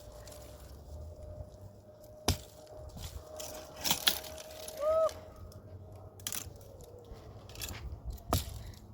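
A few sharp knocks or cracks, one after another a second or more apart, over a faint steady tone.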